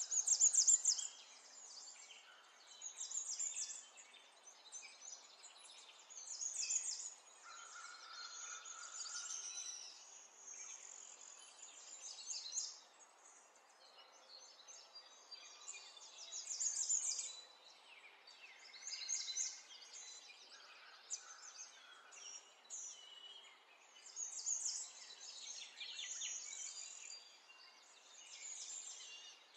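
Birds singing, with repeated bursts of high chirps from several calls overlapping throughout.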